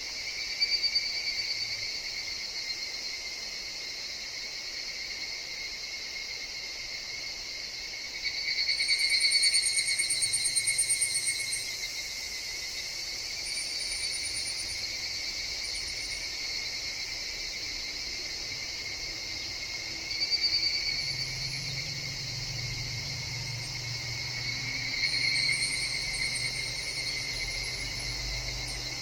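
Higurashi (evening cicadas) calling in a forest: a steady high insect chorus, with louder trilling calls swelling up and fading about four times, the longest a couple of seconds long. A faint low hum comes in after about twenty seconds.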